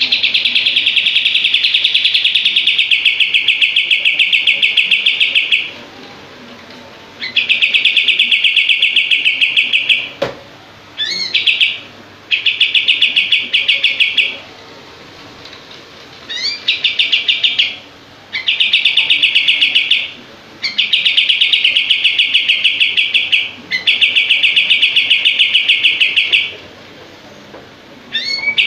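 Kapas tembak songbird singing its rapid 'shooting' song: bouts of fast, tightly packed repeated notes a few seconds long, separated by short pauses, some bouts opening with a few rising notes.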